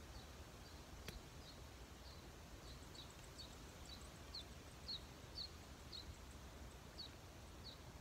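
Quiet outdoor ambience: a small bird chirping over and over, short high chirps about two a second with a short pause near the end, over a faint low wind rumble. A single faint click about a second in.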